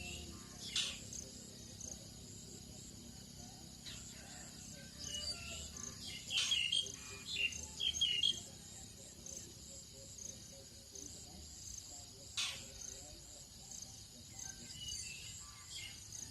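Tropical dawn chorus: a steady high-pitched drone of crickets and other insects, with birds chirping. A cluster of short bird calls comes about halfway through.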